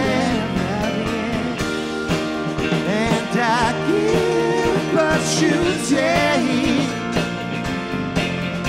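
A live rock band playing a song: drum kit, bass guitar, electric guitar and a Nord stage piano, with a wavering melody line over a steady beat.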